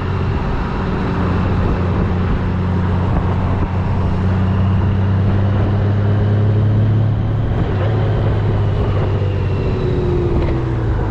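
Motorcycle engine running at a steady note, heard over wind and road noise on the rider's action camera.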